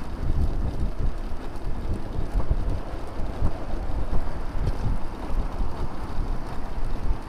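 Wind buffeting the microphone of a bicycle-mounted camera while riding, heard as an uneven, gusting low rumble over road noise.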